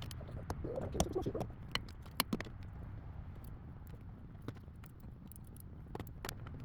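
Scattered small clicks, ticks and rustles of hands and tools working on car wiring, with a brief burst of denser rustling about a second in, over a low steady hum.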